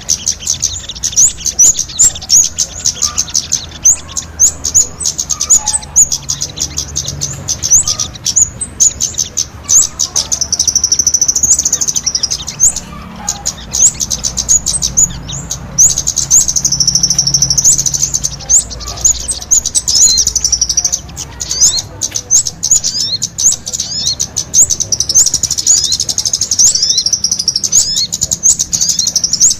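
Kemade and sogon songbirds singing vigorously together: rapid, high-pitched chirps and trills, running into stretches of dense, continuous twittering a little before the middle and again near the end.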